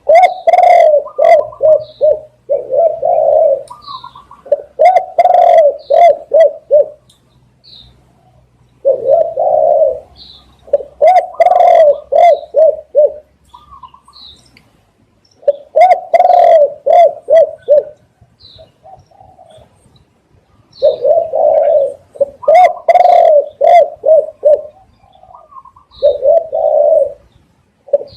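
Spotted doves cooing loudly in phrases of several deep coos, each phrase starting again every few seconds.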